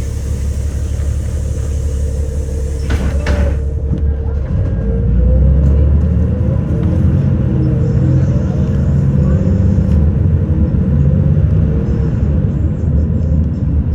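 Bus heard from inside: a hiss of air lasting about three seconds, then the engine's rumble grows louder from about five seconds in as the bus pulls away, with faint rising gear whine.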